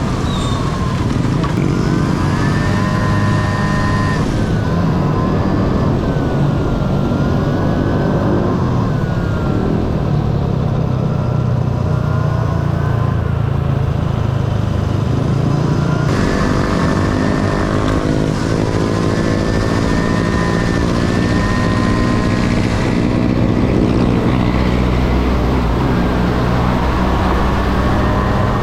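Honda Dio AF18 scooter's single-cylinder two-stroke engine running under way, its pitch climbing as it accelerates about two seconds in and again past the middle, then easing back off, over a steady low rumble.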